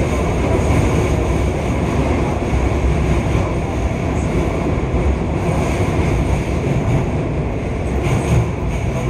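Keio 5000 series electric train running, heard from inside the passenger car: a steady low rumble of wheels on the rails.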